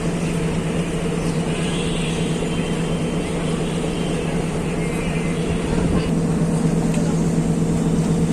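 Train running: a steady mechanical rumble and hum with a held low tone, growing louder about six seconds in.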